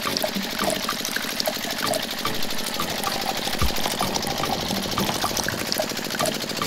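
Liquid trickling and dripping from the spout of a miniature DIY grinding machine into a small plastic bucket, with many small drips throughout. The steady buzz of the machine's small electric motor runs underneath.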